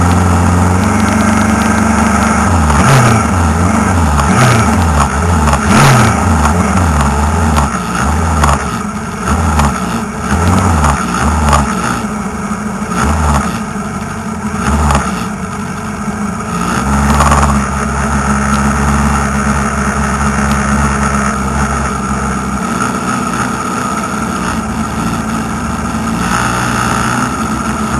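Single-seater racing car's engine, heard close from the car itself, idling while stationary with a string of throttle blips through the first half, then running more steadily.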